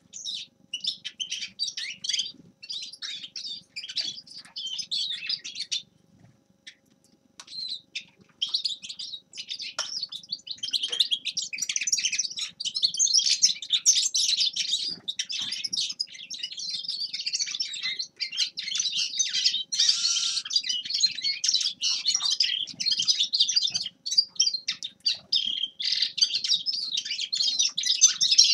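A finch singing a long, rapid twittering song, with a short break about six seconds in before the song resumes almost without pause.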